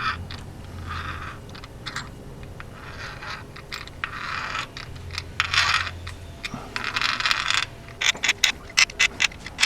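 Hand-turned thread tap cutting new threads into the aluminum of a Toyota 1ZZ-FE valve cover's coil-bolt hole: a series of short metallic scraping strokes about a second apart, then a quick run of sharp clicks near the end.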